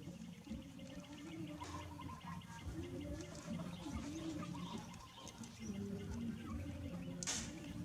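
Baby monkey making soft, wavering chirps and coos, with one short sharp noise near the end.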